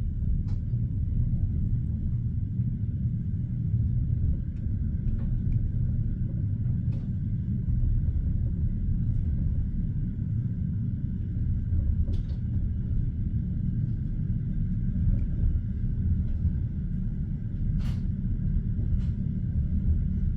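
Steady low rumble of a passenger train carriage heard from inside the car, with a few faint, scattered clicks.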